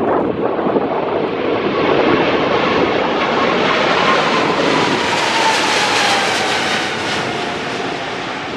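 Boeing 777-300ER's twin GE90 turbofans at takeoff thrust: a loud jet roar that builds to a peak and then eases, with an engine whine falling in pitch as the airliner passes.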